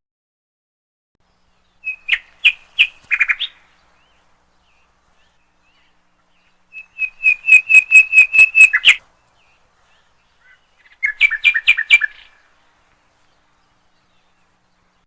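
A bird singing three short phrases of quick repeated notes, a few seconds apart. Each phrase runs about five or six notes a second, and the middle one is the longest.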